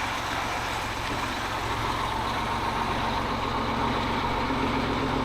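A vehicle engine running steadily, with an even low rumble.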